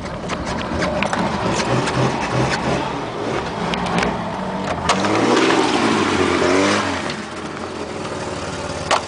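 Worn, carbureted 1967 Mercedes petrol engine on a hard cold start, turning over and firing unevenly as it tries to catch. About five seconds in it rises and falls in pitch as it revs up, then settles back to a lower run.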